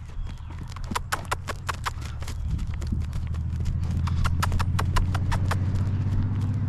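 A horse's hooves striking hard ground in quick, uneven hoofbeats as it moves around. A low steady rumble comes in about two and a half seconds in and carries on under the hoofbeats.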